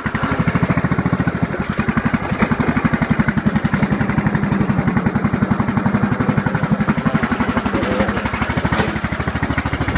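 Small tractor engine running steadily with an even, rapid pulsing, just after being started.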